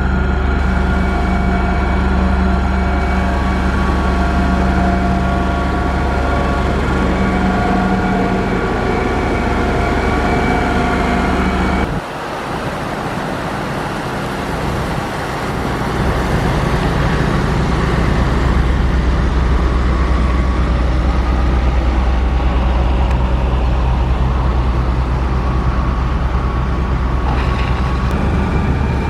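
Heavy diesel engine of a motor grader running steadily under load. The sound drops off abruptly about twelve seconds in and builds back up a few seconds later.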